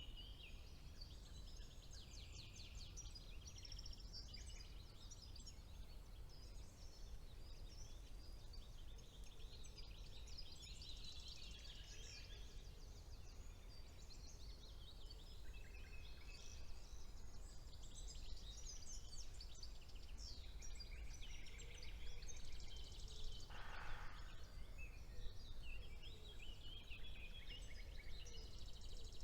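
Spring woodland bird chorus: several songbirds singing at once in quick, overlapping trills and chirps, over a steady low background rumble.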